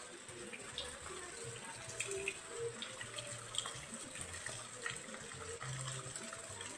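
Rain falling with steady running, splashing water and scattered drips.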